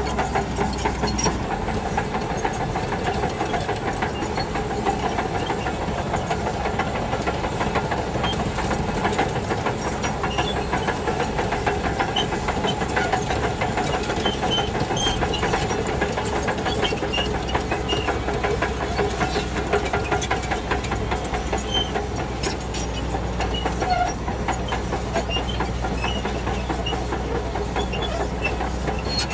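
Shantui DH17C2 crawler bulldozer working: its diesel engine runs steadily while the steel tracks clatter continuously.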